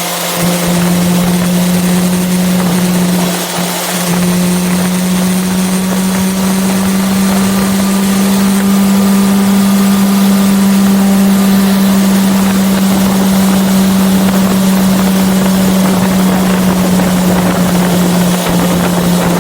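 Yamaha FZ6R's 600 cc inline-four engine pulling at steady high revs while riding, with wind rushing over the microphone. The engine note breaks off briefly about half a second in and again about three and a half seconds in, then holds steady and climbs slightly in pitch.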